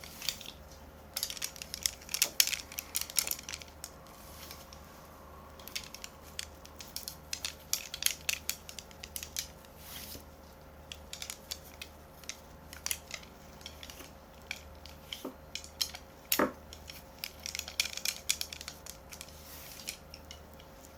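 Irregular clusters of light clicks and taps, typing on a keyboard, over a faint steady hum.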